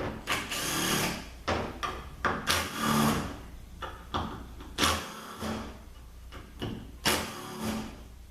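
Small power driver spinning bolts out of a ZF6HP26 automatic transmission valve body, in short bursts several times over with pauses between.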